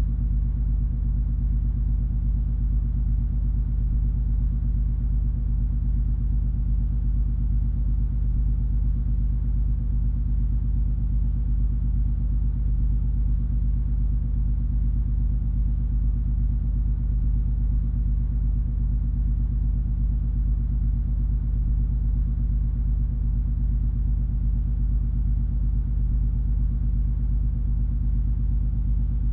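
Cruise ferry MS Color Magic under way, a steady low engine drone and rumble that neither rises nor falls, with a constant low hum of several tones within it.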